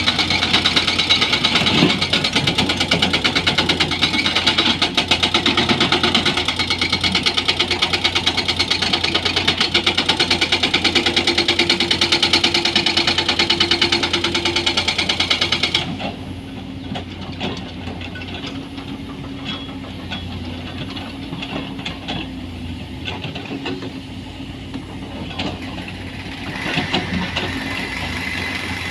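Heavy excavator's diesel engine working hard with a high hydraulic whine. About sixteen seconds in it drops abruptly to a lower, steadier running sound with scattered metallic knocks.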